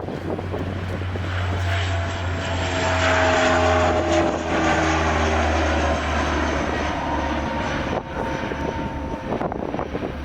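Aircraft flying low past, its engine noise building to a peak about three to four seconds in, with its tones sliding down in pitch as it goes by, over a steady low rumble.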